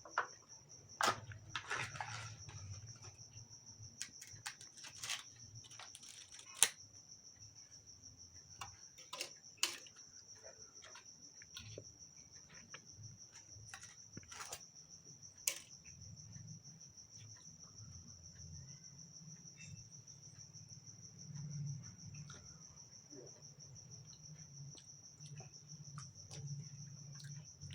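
Steady high-pitched chirring of crickets, with scattered sharp clicks and taps from eating, most of them in the first half.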